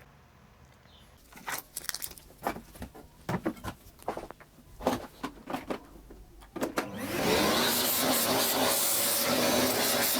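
Small clicks and knocks of phone parts and tools being handled on a work surface, then about seven seconds in a hot air rework station's blower switches on and runs with a steady blowing hiss and low hum.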